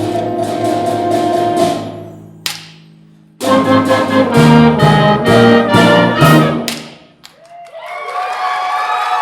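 A school band with brass and percussion finishes a piece. A held chord fades out, a single sharp hit comes after it, then a run of loud, punched brass chords ends abruptly about seven seconds in. The audience starts applauding and cheering just after.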